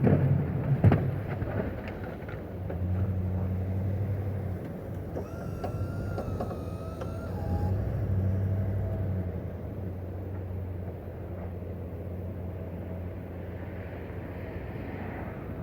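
An engine running steadily at a low pitch, with a thin wavering whine for a couple of seconds about five seconds in.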